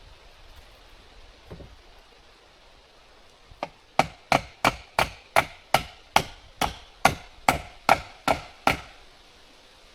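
A hammer striking wood in a quick, even run of about a dozen blows, roughly three a second. They start after a light first tap and stop abruptly.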